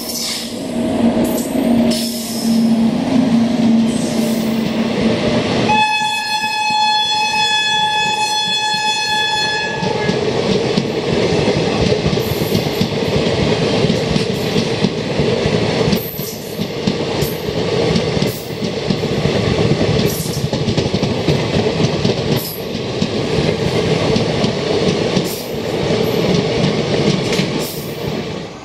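Express train passing at speed on the adjacent track. About six seconds in, its electric locomotive sounds one long horn blast lasting about four seconds. The coaches rumble past with a steady clickety-clack of wheels over the rail joints.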